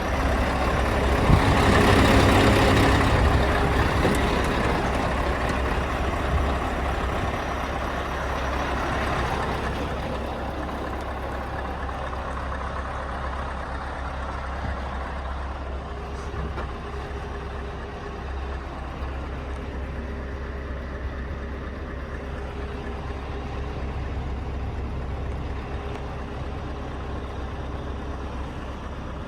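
Scania R520's 16-litre V8 diesel truck engine running at idle, a steady low hum. About a second in, a loud rush of noise swells over it and fades away over the next several seconds.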